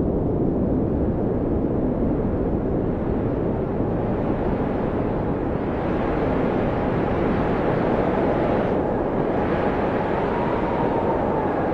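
Blizzard wind blowing steadily with a faint howl that wavers slowly in pitch. It grows stronger and hissier in a gust from about halfway through, easing briefly near the end.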